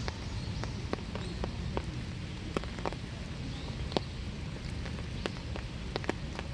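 Winter rain: irregular raindrops dripping and tapping on surfaces, with sharp single drops standing out over a steady low background hiss and rumble.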